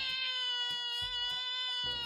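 A domestic cat giving one long, drawn-out meow held at a steady pitch.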